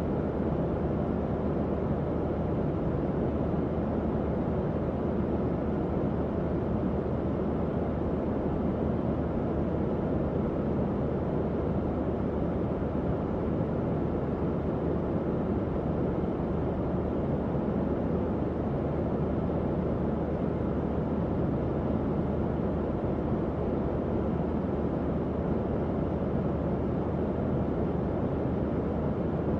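Tower fan running steadily: an even, low whoosh of moving air with a faint hum underneath, unchanging throughout.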